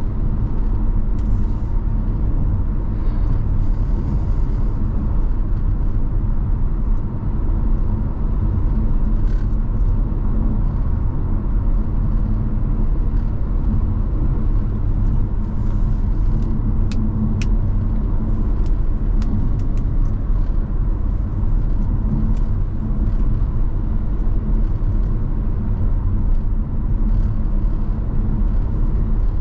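Car driving on a highway: a steady rumble of engine and tyre road noise with a faint steady hum. Scattered sharp ticks come through a little past halfway.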